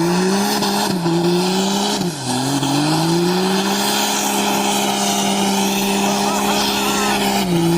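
Diesel truck engine revving: the revs dip and climb a few times, are held high and steady for several seconds, then drop back near the end.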